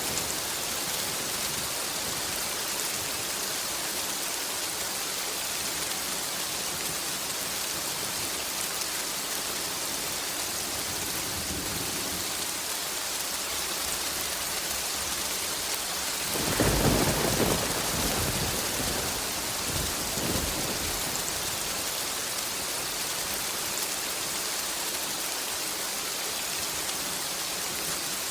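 Steady rain hiss with a single clap of thunder rumbling in a bit past halfway, loudest for about a second and then trailing off over a few seconds.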